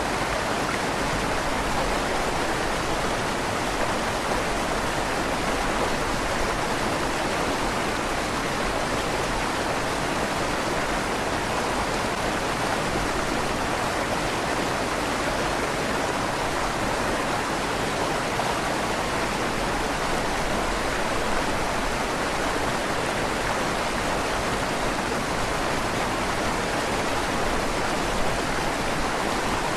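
River water flowing steadily under a stone bridge, a continuous even rush with a slight echo off the stone tunnel walls.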